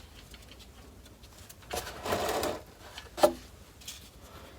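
Faint handling sounds of a transfer case fill bolt being unscrewed by hand: a short scrape about two seconds in, then a sharp metallic click.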